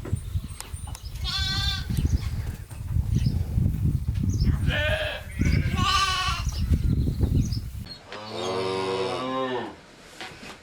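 Farm animals calling: three quavering, high-pitched bleats over wind rumble on the microphone. Then, after an abrupt change, one long, lower call about two-thirds of the way through.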